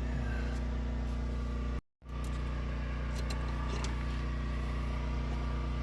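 1972 Ford F-250 truck engine running steadily at idle, with a brief dead-silent break about two seconds in and a few light clicks after it. The owners suspect a carburetor fault, the accelerator pump not passing fuel.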